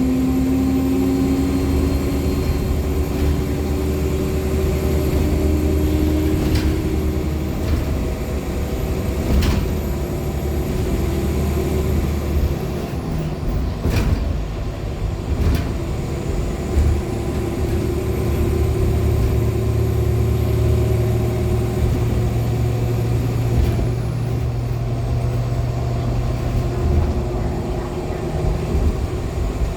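Inside a 2014 NOVA LFSA hybrid articulated bus under way: the Cummins ISL9 diesel and hybrid drive hum steadily, with a thin, high turbocharger whistle that fades out and comes back twice. A few sharp clicks or rattles come from the body.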